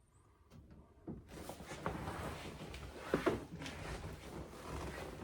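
Handling noise: a few knocks and clicks over a steady background hiss, which begins abruptly a little over a second in, with the strongest pair of knocks about three seconds in.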